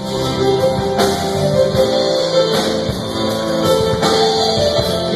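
Instrumental band music with guitar and drums playing a steady beat under held melodic notes.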